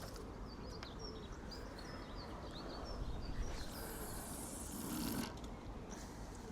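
Small birds twittering in quick, short chirps, then a brief loud hiss lasting about a second and a half, over a faint steady low rumble.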